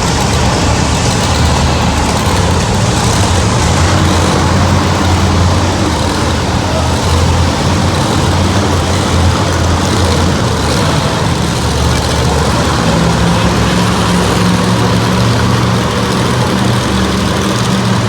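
Monster truck engines running loudly in an arena, a steady low drone whose pitch steps up about thirteen seconds in.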